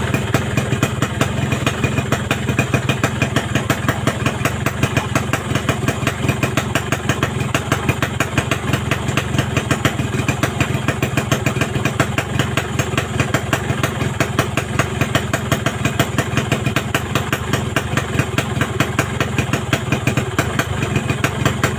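Yamaha RX-King two-stroke single-cylinder motorcycle engine idling steadily through a Boban Nukilir aftermarket exhaust, with an even pulsing beat. It comes in abruptly and holds the same pace without revving.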